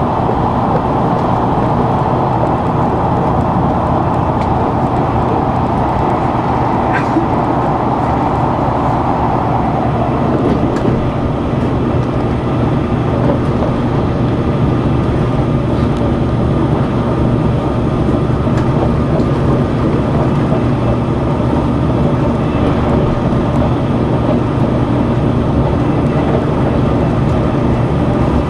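Limited express Sonic tilting electric train running at speed, heard from inside the passenger cabin: a steady rumble of wheels on rail. A higher hiss stands out for the first several seconds and then fades.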